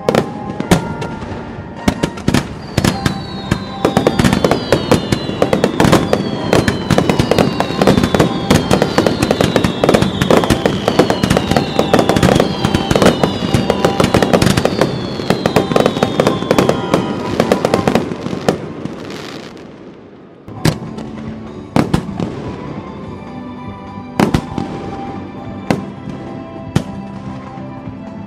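Fireworks display: a dense, rapid barrage of bangs and crackles with many repeated falling whistles. The barrage thins out about two-thirds of the way through to a few separate bangs, with background music throughout.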